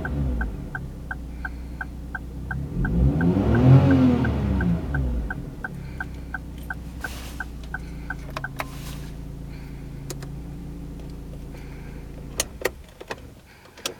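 Daihatsu Move Custom's small kei-car engine idling, revved once about three to four seconds in with the pitch rising and falling back to idle. A light regular tick about three times a second runs over the idle and stops about halfway through. Near the end the engine sound drops away and a few sharp clicks follow.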